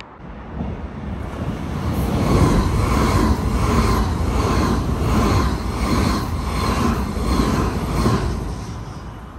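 SBB double-deck electric passenger train passing through the station at speed without stopping. Its rumble builds about a second in, carries a regular pulsing of roughly one and a half beats a second, and fades near the end.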